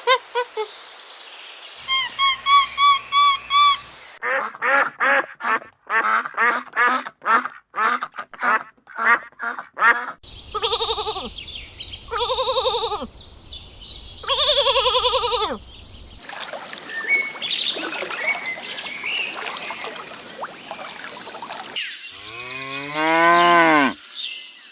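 Different farm animals calling one after another: a run of short high chirps, then a fast series of quacking-like calls, then three long drawn-out calls, and one long loud call near the end.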